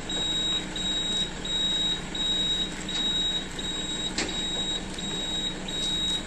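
A truck's warning beeper sounds a steady run of high beeps, about one and a half a second, over a low engine hum while the truck is loaded onto the towing truck. There is a single sharp knock about four seconds in.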